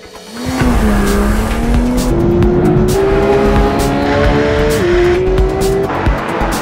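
Porsche 911 flat-six engine accelerating hard from a standing start: it opens up about half a second in and the revs climb, dropping briefly about five seconds in as it shifts up, then climb again.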